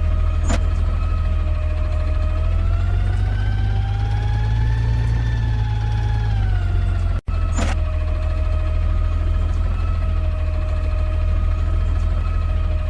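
Garbage truck engine running with a heavy low rumble. About two seconds in it speeds up, holds the higher pitch for a few seconds, then drops back to idle. Two sharp clicks are heard, one near the start and one after a brief cut in the sound a little past halfway.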